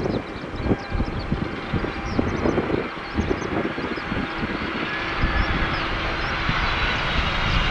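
Aircraft engine noise slowly building louder, overlaid by strong wind buffeting the microphone in irregular gusts.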